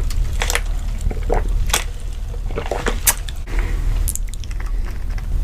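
Wet, messy eating: irregular smacking, squishing and biting sounds of chewing, several a second, over a steady low hum.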